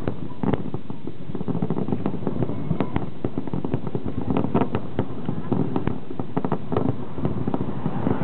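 Fireworks display: a rapid, irregular string of bangs and crackles, several a second, with crowd voices underneath.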